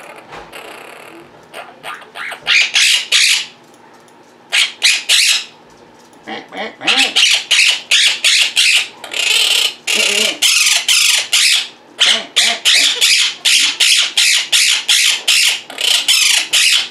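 Quaker parrots (monk parakeets) squawking loudly in rapid runs of short, shrill calls, with brief pauses between the runs.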